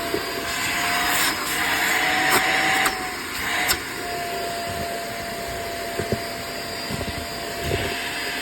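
Hoover React vacuum cleaner running with a steady motor whine, sucking up large debris: the hiss swells in the first three seconds with a few sharp clicks as pieces rattle through, then settles.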